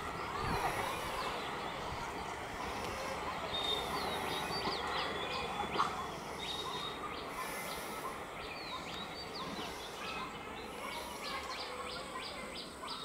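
Birds chirping and calling over steady outdoor background noise, with a quick run of chirps near the end and a single brief knock about six seconds in.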